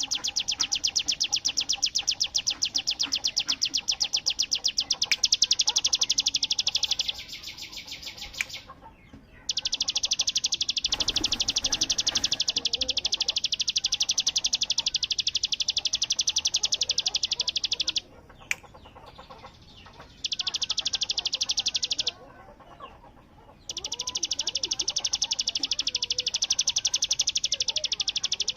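Ciblek (a prinia songbird) singing its 'bren' song: a very fast, high, buzzing rattle like machine-gun fire. It is held for several seconds at a time, broken by short pauses, with fainter chirps underneath.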